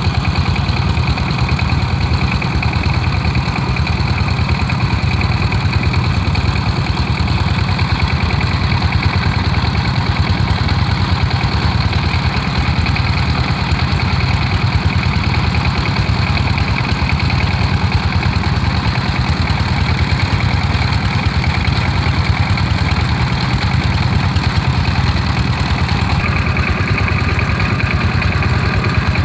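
Kubota and Dongfeng diesel engines running together at a steady speed, driving irrigation pumps, with a fast, even chugging throughout. There is a slight change in tone about 26 seconds in.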